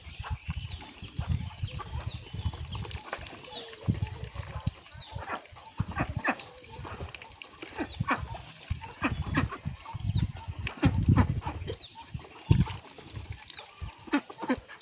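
A flock of farmyard poultry, chickens and ducks, calling and clucking in many short, scattered calls, with repeated low thuds and rumbles underneath.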